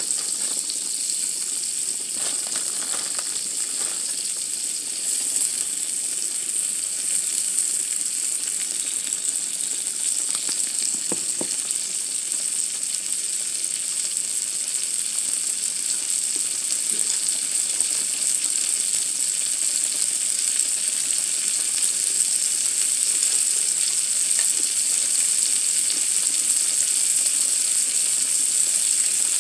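Food frying on the ridged grill plate of an electric hot pot–grill, a steady sizzle that grows a little louder over time.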